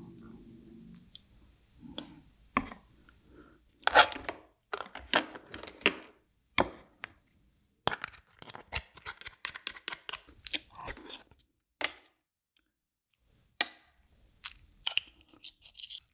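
Close-miked chewing of soy-sauce-marinated raw crab and rice, with crunching and many irregular sharp clicks, busiest in the middle and thinning out near the end.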